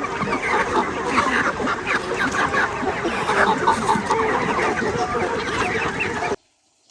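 A flock of chickens clucking, with many short calls overlapping. It cuts off suddenly near the end.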